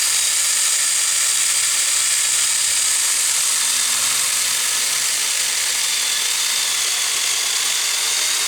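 Saker battery-powered mini chainsaw running steadily at full speed with a high-pitched whir as its small chain cuts through a piece of firewood.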